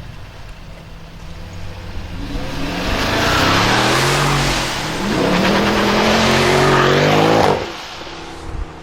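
Mercedes-Benz C63 AMG's V8 through an iPE aftermarket exhaust, accelerating hard: the engine note climbs, dips for a moment about five seconds in as it shifts up, climbs again, then cuts off sharply near the end as the throttle is released.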